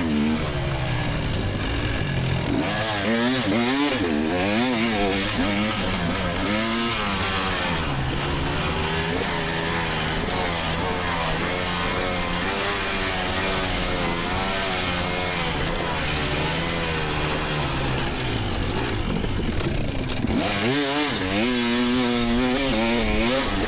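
2024 GasGas EX300 two-stroke dirt bike engine under hard riding, its pitch rising and falling with the throttle, with quick rapid up-and-down wavering in two spells, a few seconds in and near the end.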